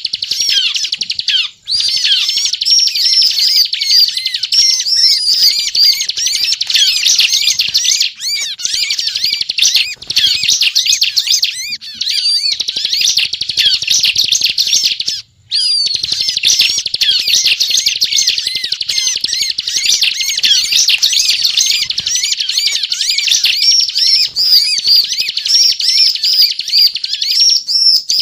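Bar-winged prinia (ciblek) singing nonstop: a rapid, high-pitched chattering trill, broken only by two brief pauses, about a second and a half in and about halfway through.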